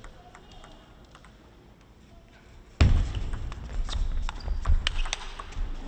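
Table tennis play: faint taps of the ball at first, then, from about three seconds in, a quick run of sharp ball strikes and bounces with thuds, over louder hall noise.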